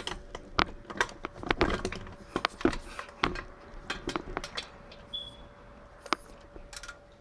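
Metal clicks and knocks of a 3/8-inch ratchet, extension and 14mm crow's foot being worked onto a stuck exhaust manifold nut, in irregular bursts that thin out about halfway through.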